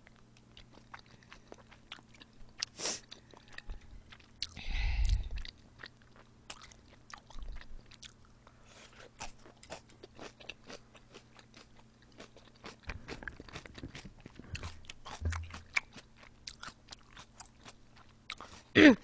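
A person chewing food close to the microphone, with many small wet mouth clicks, and a louder noise about five seconds in.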